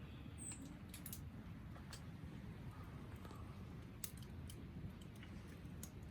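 Faint low background rumble with scattered light clicks and one brief high chirp about half a second in.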